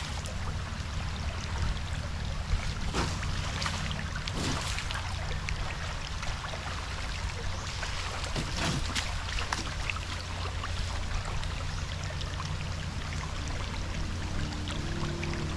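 Water rushing and splashing around a car driving through floodwater, over a steady low hum from the car, with scattered sharper splashes.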